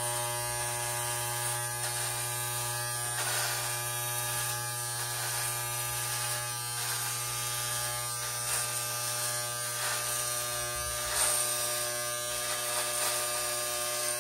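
Electric hair clippers buzzing steadily as they shave an undercut, with faint brushy strokes now and then as the blades pass through hair.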